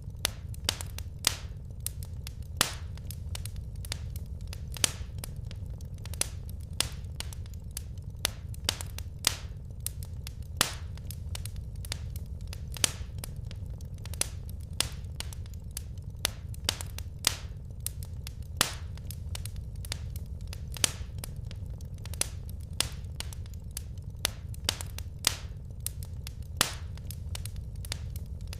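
Burning wood logs in a fireplace crackling: irregular sharp pops and snaps, a few louder than the rest every couple of seconds, over a steady low rumble of the fire.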